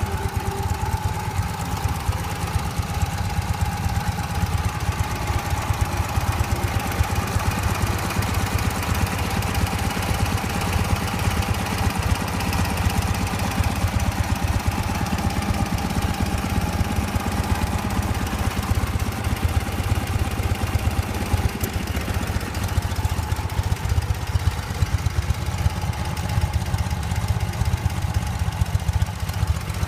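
Ural IMZ-8.103-10 motorcycle's flat-twin engine idling steadily, its fast even pulse holding the same speed throughout.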